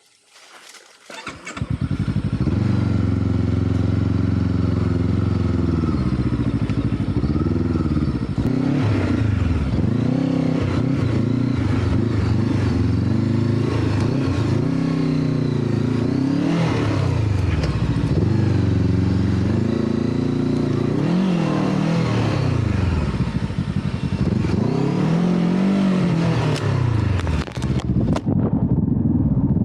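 Motorcycle engine starting about a second and a half in, then revving up and down again and again as the bike labours through soft sand.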